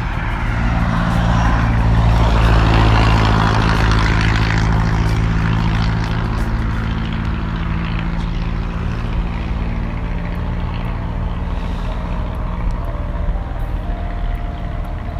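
A motor vehicle's engine running with a steady low drone, and a swell of road noise that builds over the first few seconds as it passes and then fades.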